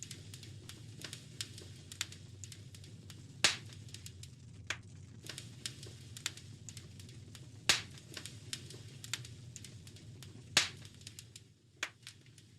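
Wood fire crackling in a fireplace: a steady run of small snaps and ticks with three louder pops, over a low steady rumble.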